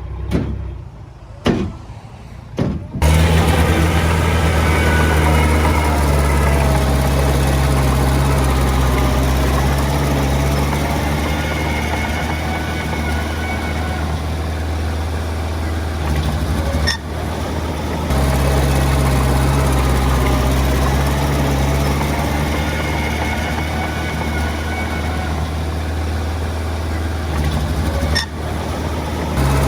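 Diesel engine of heavy earthmoving machinery running steadily with a deep, even drone. It comes in suddenly about three seconds in, after a quieter stretch of a few short sounds, and breaks off briefly twice later on.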